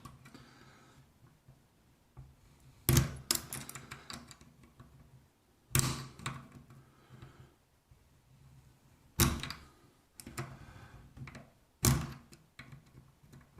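Four sharp knocks about three seconds apart, with smaller clicks and rattles between them, from tools and faucet parts being handled while a single-handle faucet is reassembled.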